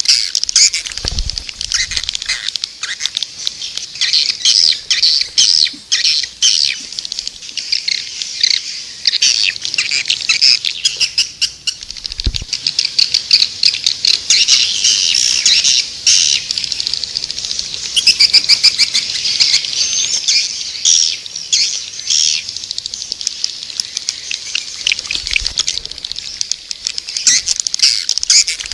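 Swiftlets twittering in a dense flock, rapid high chirps and clicks overlapping without a break. This is a swiftlet calling recording, the kind played to draw swiftlets into a nesting house.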